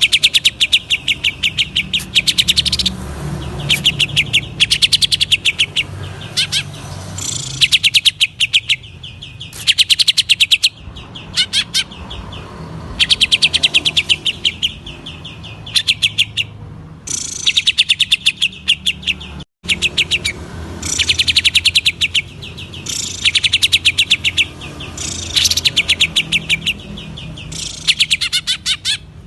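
Cucak ijo (green leafbird) singing in rapid, sharp high notes fired in bursts of a second or two, again and again with short gaps, over a faint low hum.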